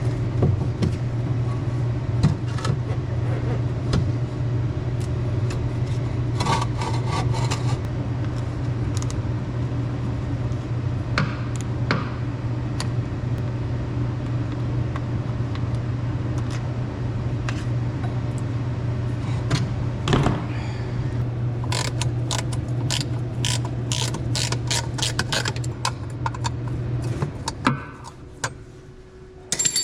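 A pressure washer's motor and pump running steadily with a constant low hum, with scattered mechanical clicks and rattles that come thick near the end. The machine shuts off about 28 seconds in.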